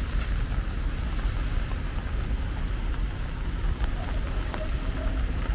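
Steady rain falling, with a constant low rumble underneath and a few faint ticks of drops.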